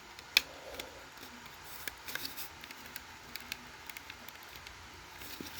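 Scattered small clicks and rustles of a plastic American Sensors 770LBX smoke alarm being handled as its battery is refitted.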